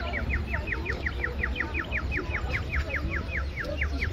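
A bird chirping rapidly: a continuous run of short, high, downward-sliding chirps, about eight a second and evenly spaced, over a low rumble.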